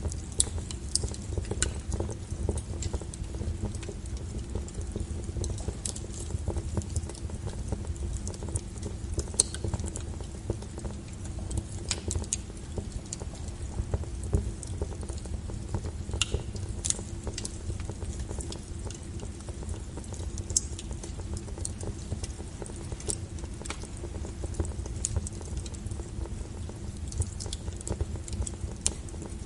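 Burning wood fire crackling, with irregular sharp pops and snaps of varying strength over a steady low rumble of the flames.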